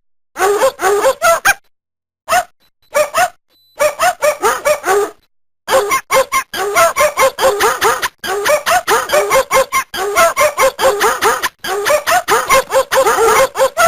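Dog barking in quick runs of short yaps, several a second, stopping and starting abruptly.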